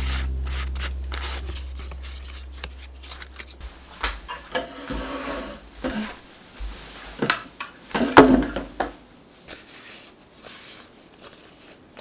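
Kitchen handling sounds during food preparation: scattered light knocks, clinks and rustling of utensils, dishes and containers, loudest about eight seconds in. Low steady background music fades out in the first few seconds.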